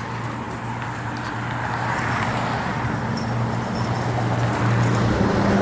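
Street traffic: a motor vehicle's engine humming steadily, growing louder as it comes closer, over road noise.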